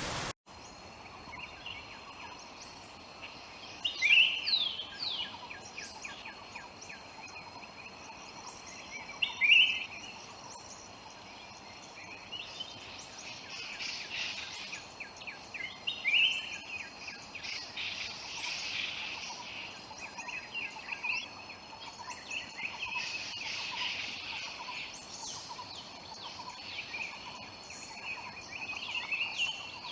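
Forest birds calling and singing in many short chirps over a steady, thin, high insect drone, with two louder sharp calls about four and nine and a half seconds in. The first split second is rushing water that cuts off abruptly.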